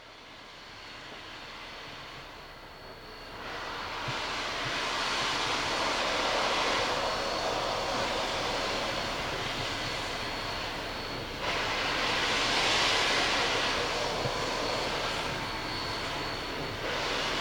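Steam hissing from K-37 steam locomotive #493, a steady rush that swells about three seconds in, drops back and surges again twice more.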